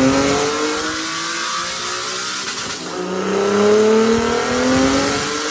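Turbocharged Nissan 370Z's 3.7-litre V6 running on a chassis dyno, its pitch rising steadily in two long climbs, the second from about 3 s to 5 s in.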